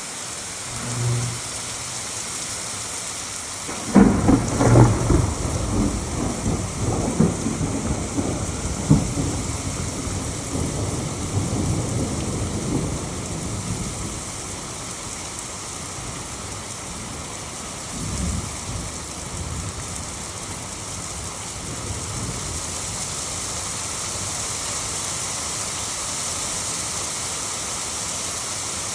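Hail and rain falling in a steady hiss, with a loud crackling rumble of thunder starting about four seconds in and dying away over some ten seconds, and a fainter rumble later.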